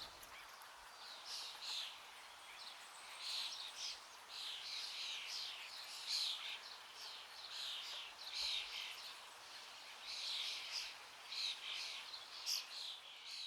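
Songbirds singing, a continual run of short, high chirping phrases.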